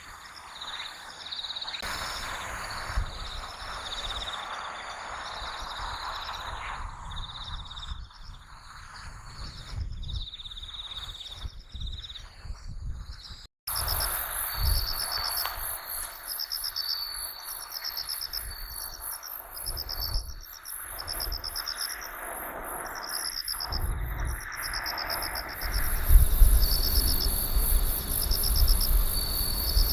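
Crickets chirping: a steady high trill, then after a brief break about halfway through, a run of repeated pulsed chirps over it. Wind rumbles on the microphone, stronger near the end.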